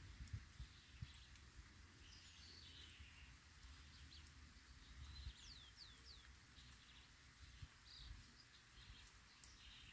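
Faint outdoor birdsong: small birds giving short, high chirps that slide downward, a few at a time with gaps between, over a low rumble of wind on the microphone.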